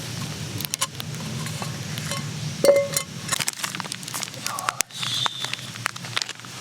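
Light clinks and knocks of cookware being handled over a crackling campfire, with one brief ringing clink about halfway through.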